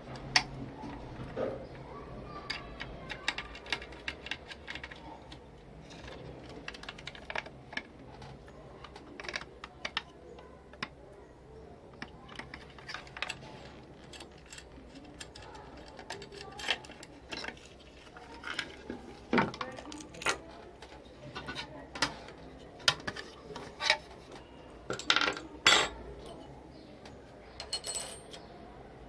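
Irregular clicks, taps and light knocks of small hard parts and tools being handled during a car side-mirror repair. A few louder knocks come in the second half.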